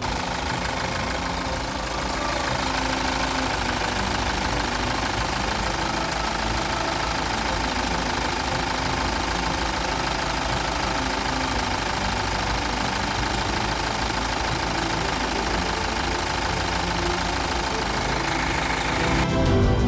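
Hyundai R-series diesel engine running steadily.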